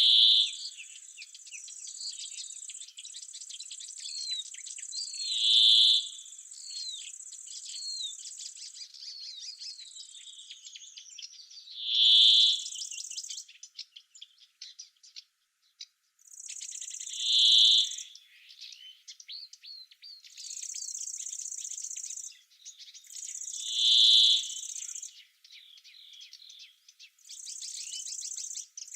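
Oak-wood ambience in summer: one bird repeats a short loud song phrase about every six seconds over scattered chirps of other birds. An insect's high, even buzzing stridulation runs steadily for the first several seconds, then comes in spells of a second or two.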